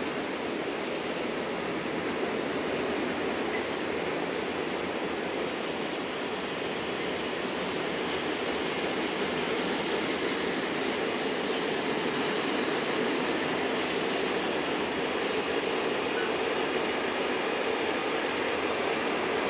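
A train passing: the steady rolling noise of wheels on rails, rising slightly toward the end.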